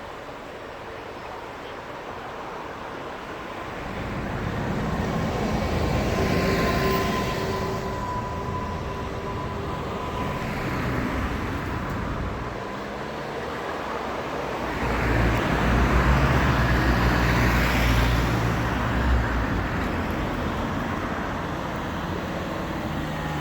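Bombardier Flexity 2 trams passing twice, each swelling up and fading away, the first with a faint steady whine.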